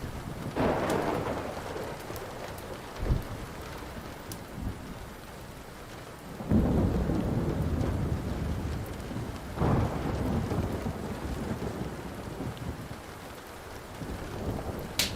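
Steady rain with thunder rolling in three surges: about half a second in, midway, and again about ten seconds in. A wood fire crackles, giving a few sharp pops, the loudest near the end.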